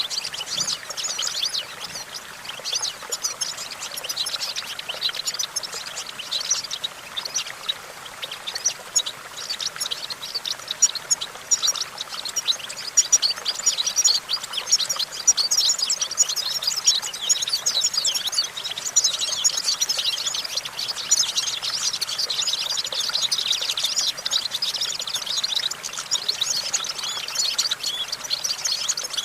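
European goldfinch singing: a fast, unbroken stream of high twittering notes and trills, growing denser after the first ten seconds or so.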